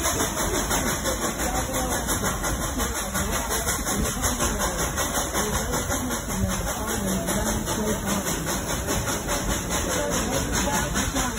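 Steady rumble and clatter of a narrow-gauge steam train running along the track, heard from an open-sided car.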